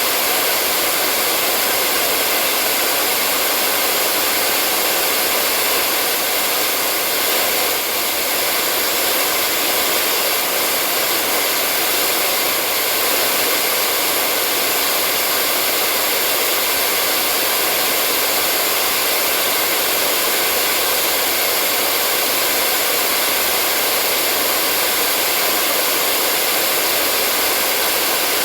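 Hair dryer running continuously: a steady, unchanging rush of blown air with a faint motor hum, used as white noise for putting a baby to sleep.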